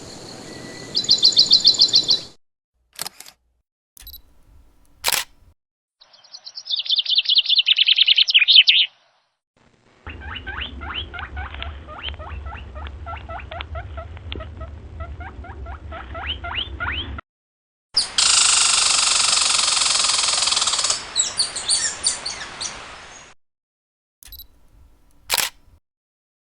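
Birds chirping in fast repeated runs, heard in several short stretches that start and stop abruptly, with a few sharp clicks between them.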